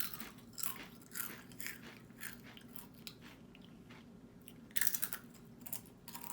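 Close-up chewing of crunchy Doritos Flamin' Hot Limon tortilla chips: irregular crunches a few times a second, with a louder burst of crunching about five seconds in.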